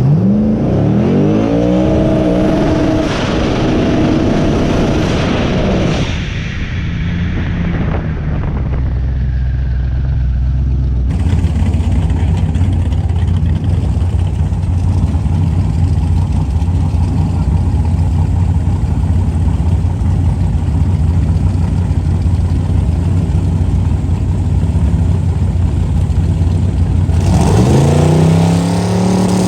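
Twin-turbo LS V8 revving up hard for about six seconds, its pitch climbing, then dropping off sharply. A steady low engine drone follows, and near the end the engine revs up again.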